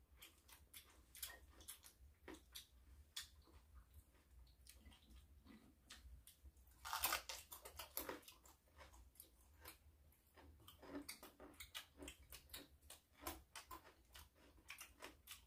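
Faint chewing and crunching of raw vegetables, a run of small crisp clicks, with one louder crunchy bite about seven seconds in.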